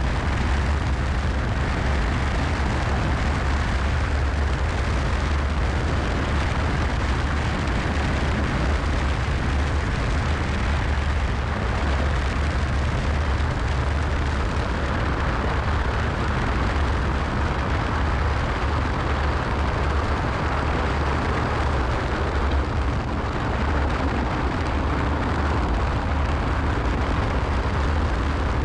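Cessna 172SP's four-cylinder Lycoming IO-360 engine and propeller droning steadily, with airflow noise, heard inside the cockpit. The level dips slightly about three quarters of the way through.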